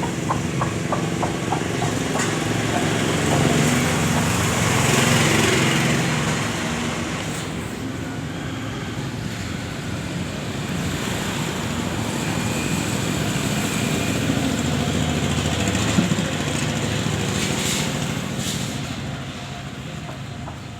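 A small engine running steadily, swelling louder, easing off, then swelling again before fading near the end.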